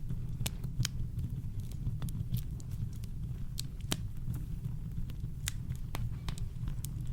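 Campfire crackling: irregular sharp pops and snaps, a few a second, some louder than others, over a steady deep low rumble.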